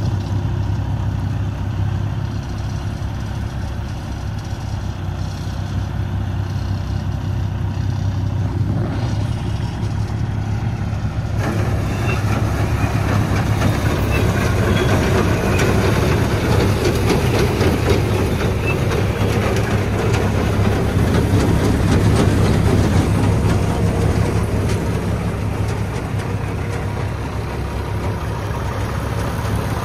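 1980 International Harvester 1854 truck engine idling steadily, getting louder and rougher from about eleven seconds in.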